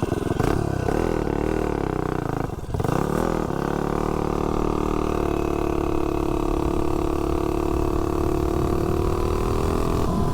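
Tillotson 225 single-cylinder engine on a mini bike, just started, running unevenly with the throttle being blipped, a brief drop about two and a half seconds in, then held at a steady, slightly falling engine speed for the rest.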